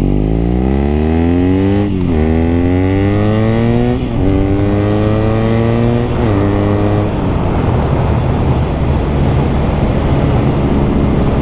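BMW R nineT's 1170 cc air/oil-cooled boxer twin accelerating through the gears. The engine note climbs and drops back with an upshift about two, four and six seconds in, then holds steady under heavy wind noise.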